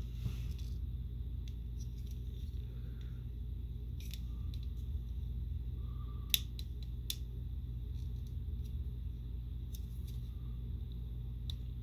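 Scattered clicks and light rattling of a Transformers Skytread figure's plastic parts being folded and pegged into jet mode, with one sharp snap about six seconds in, over a steady low hum.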